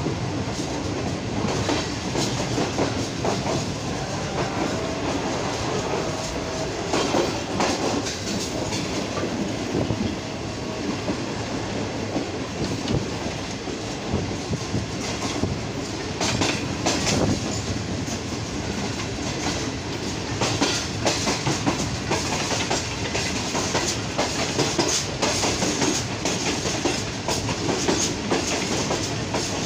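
Rehman Baba Express passenger train running at speed, heard from an open coach doorway: a steady rumble of wheels on rail, with sharp clacks over rail joints coming in clusters, more often in the second half.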